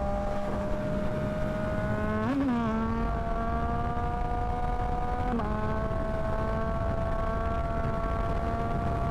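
Yamaha MT-09's three-cylinder engine running steadily under way, with wind noise underneath. The engine note blips up briefly about two seconds in, then drops with a gear change about five seconds in and climbs slowly again.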